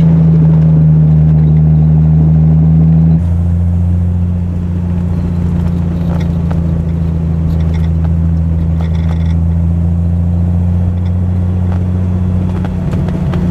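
Triumph TR6's straight-six engine running through a Monza exhaust with resonators, a steady low drone while driving at a fairly constant speed. The note changes abruptly about three seconds in and then holds steady again.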